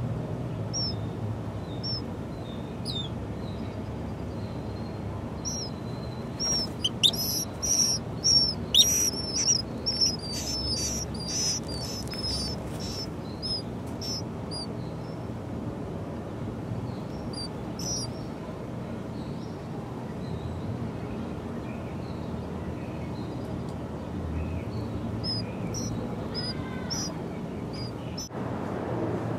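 Small birds chirping: scattered high chirps, then a quick, loud run of them from about six to thirteen seconds in, and a few more near the end, over a steady low hum.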